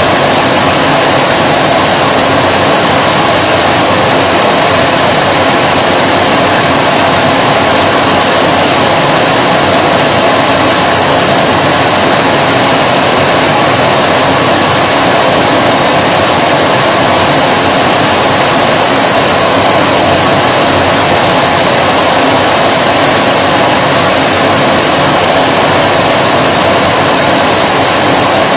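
Vacuum cleaner motor running steadily: an even airy rush with a hum in the middle range and a faint high whine, unchanging in pitch and level.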